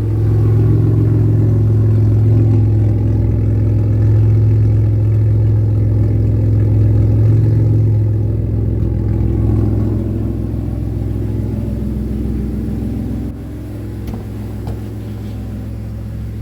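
BMW E46 330Ci's straight-six engine running at a steady idle. The level drops suddenly about 13 seconds in.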